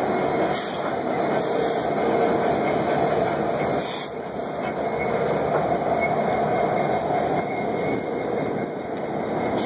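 Freight train rolling past at close range: a steady noise of the cars running on the rails, with a thin, high wheel squeal held throughout.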